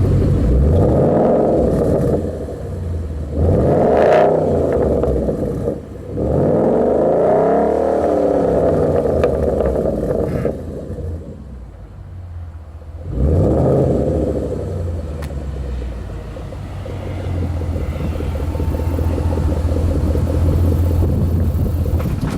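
2013 Ford Mustang's exhaust through a Roush axle-back muffler system, idling steadily and revved four times, each rev rising and falling back to idle; the longest rev comes a few seconds in.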